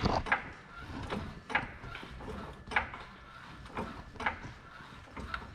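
Irregular clicks and knocks of hand tools and parts being handled during an oil change on a truck, a few a second, the sharpest one right at the start.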